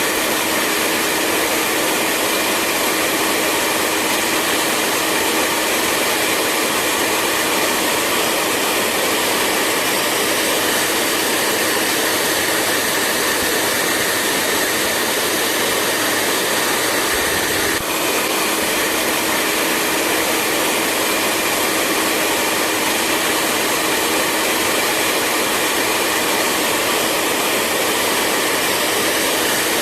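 Electric hair dryer running steadily: a constant blowing hiss with a steady hum and whine, broken only by a brief dip in level partway through.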